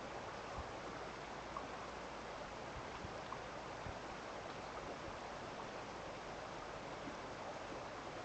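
Steady rush of running water, like a small stream, with a few faint short ticks scattered through it.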